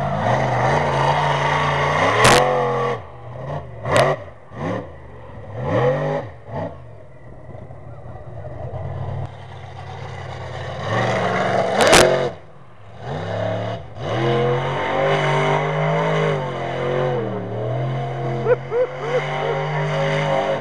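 Bigfoot monster truck engine revving hard in repeated surges, its pitch swooping up and down and dropping back between blips. Sharp bangs cut through about two seconds in, again about four seconds in, and near the middle.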